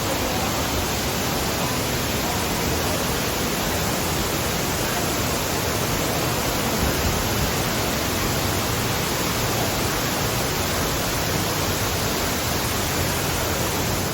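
Steady, loud rushing noise, even from low to high pitches, with no breaks or changes.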